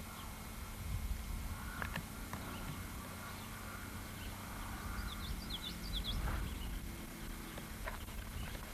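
Quiet outdoor ambience: irregular low rumble of wind on the microphone, a couple of light knocks, and a bird's quick high chirps about five seconds in.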